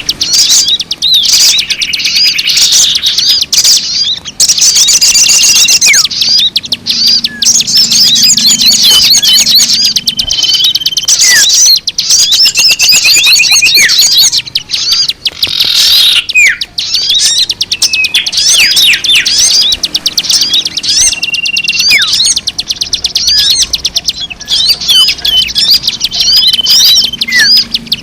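Dense, unbroken chirping and twittering of many small birds, with fast trills and short held whistles overlapping. This is a bird-lure (pemikat) recording meant to draw in all kinds of birds.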